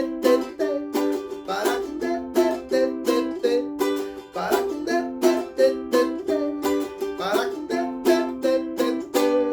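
Ukulele strummed in a steady rhythmic chord pattern, several strokes a second with a stronger accented strum about every three seconds, played as an instrumental passage without singing.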